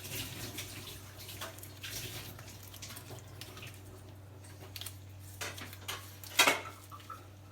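Soy sauce being poured over chicken in a bowl, a faint liquid trickle with small clicks and clinks of the bottle and bowl. The loudest sound is a sharp knock about six and a half seconds in, with a smaller one just before it.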